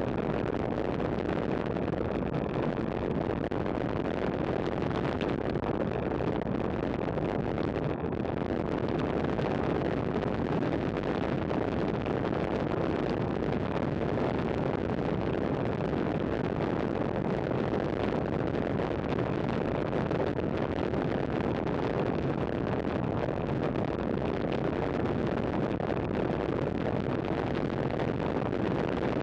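Steady rush of wind over the microphone of a camera riding along on a road bicycle, with tyre and road noise underneath.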